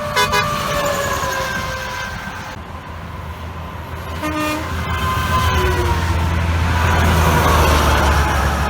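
Passing semi trucks sounding air horns: horn tones slide down in pitch as a truck goes by, with short horn blasts just after the start and about four seconds in. A truck's low rumble grows louder through the second half.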